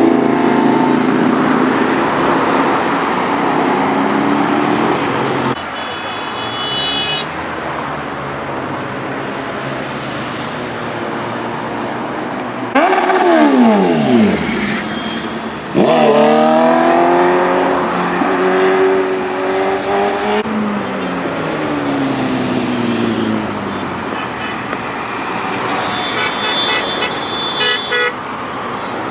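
Superbike engines revving and passing by in traffic. One passes close about halfway through with a sharp falling pitch, then another accelerates with rising revs. A vehicle horn honks briefly twice, once early and once near the end.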